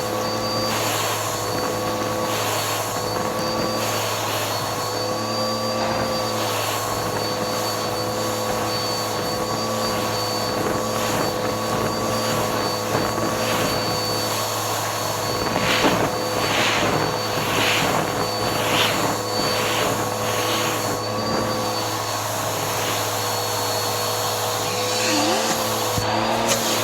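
Bissell vacuum cleaner running steadily on its hose, a constant motor whine with short bursts of rushing suction noise through the middle stretch.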